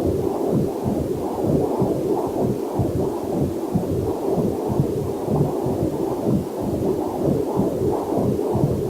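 Heartbeat picked up through a fetal Doppler monitor: rhythmic whooshing pulses, a little over two a second, the muffled womb-like sound of a Doppler heart probe. A faint waterfall is mixed in underneath.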